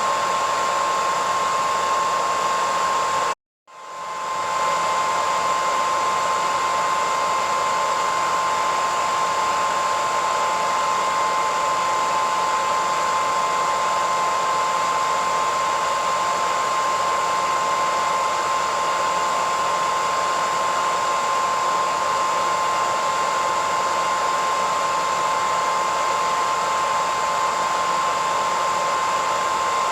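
Hair dryer running steadily: a rush of air with a steady whine on top. About three seconds in, it cuts out completely for a moment, then fades back up to full.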